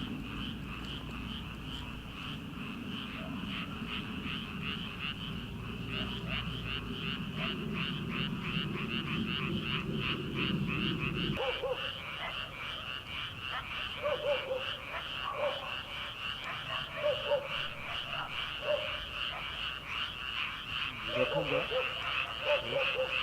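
Chorus of many frogs calling from a rice paddy, a dense, fast pulsing trill that runs on without a break. A low rumble underneath stops abruptly about halfway through, after which lower, separate calls break through now and then.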